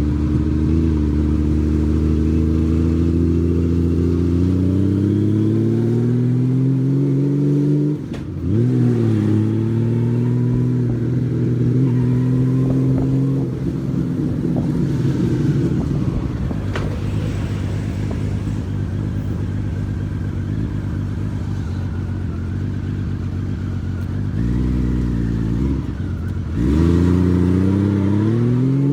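Honda Valkyrie's flat-six engine running under way, its pitch rising as it accelerates through the gears, with a gear change about eight seconds in. It holds steadier through the middle, eases off a few seconds before the end, then pulls away again.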